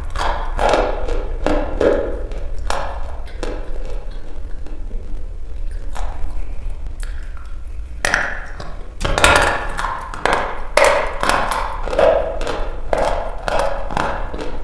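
Dry red chalk being bitten and chewed close to the microphone, a run of sharp, irregular crunches. They come every half second or so at first, thin out for a few seconds near the middle, then come thick and fast for the second half.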